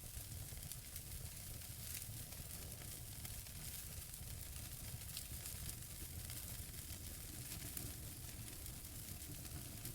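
Wood fire burning in a fireplace: crackling logs, a steady hiss with scattered small pops and a low rumble under it.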